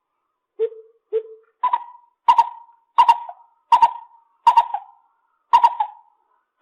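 Lesser coucal calling: a series of hollow hooting notes, two lower ones followed by a run of about seven higher ones, evenly spaced at about one and a half a second.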